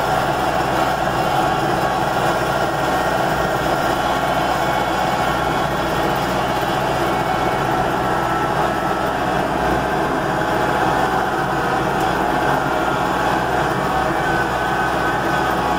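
Vehicle engine running steadily under way, heard from inside the cab as an even drone with road and rattle noise.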